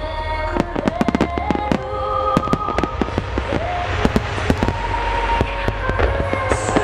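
Wide starmine barrage of aerial firework shells bursting in rapid succession: many sharp, overlapping bangs every second, thickest near the start and again partway through. Music with a sung melody plays beneath the bangs.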